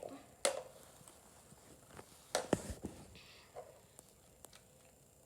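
A few light clicks and knocks of plastic toy pieces being handled on a toy playset, one about half a second in, two close together in the middle and a fainter one later.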